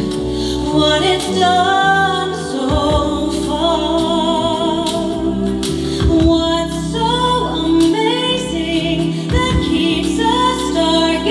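A song sung over instrumental accompaniment, with several voices in harmony holding long notes.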